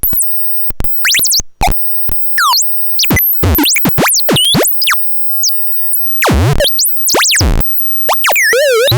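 КОСМИЧЕСКИЙ ШУМ ('Cosmic Noise') eurorack module, a Jupiter Storm–style square-wave oscillator noise source, firing short gated bursts of sci-fi tones: fast falling and rising pitch sweeps, separated by clicks and silent gaps. A longer burst about six seconds in has a deep rumble under the sweeps, and a tone warbling quickly up and down fills the last second.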